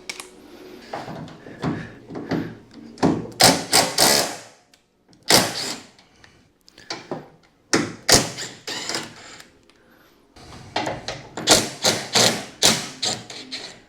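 Hand tools working on 12 mm body bolts: a run of short, irregular knocks, clicks and clatters of metal, with brief pauses between.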